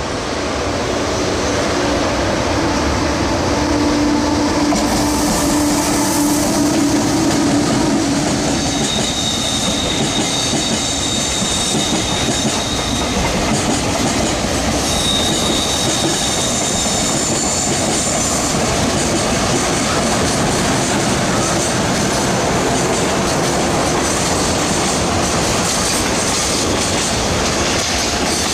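Long freight train passing close by, its wheels clattering over the rail joints in a loud, steady rumble. A high wheel squeal comes and goes around the middle of the pass.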